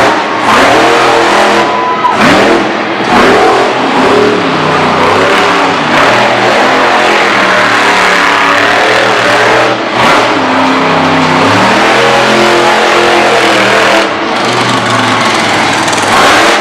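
Monster truck engine running loud, revving up and down again and again as the throttle is worked hard.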